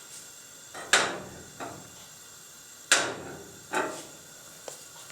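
Several sharp knocks at irregular spacing, two of them loud, each dying away quickly.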